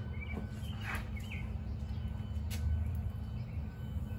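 A few short bird chirps over a steady low hum, with a couple of faint clicks.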